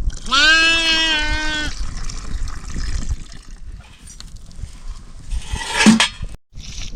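A goat or sheep bleating: one long bleat held at a steady pitch for over a second, then a shorter, louder call near the end that drops in pitch.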